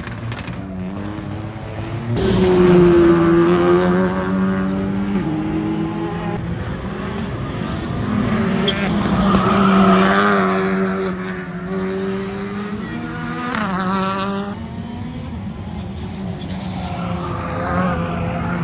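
Rally car engine revving hard, its pitch climbing and dropping again and again through gear changes and lifts as the car is driven around the circuit, with tyres squealing. It is loudest a couple of seconds in and again about halfway through.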